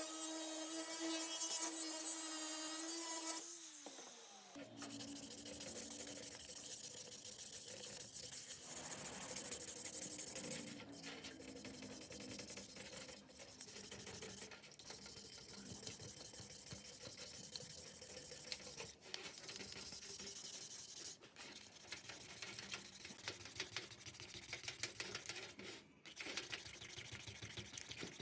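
A small power tool's motor whines steadily, then spins down about four seconds in. It is followed by a long stretch of rubbing and scraping on a part, with scattered light ticks.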